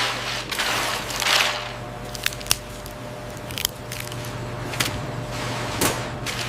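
Machinery running with a steady low hum, two hissing swells in the first second and a half, then a handful of sharp clicks and knocks.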